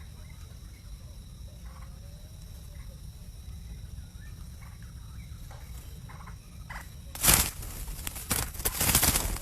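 Faint short bird chirps over a steady low rumble, then, about seven seconds in, a run of loud noisy bursts.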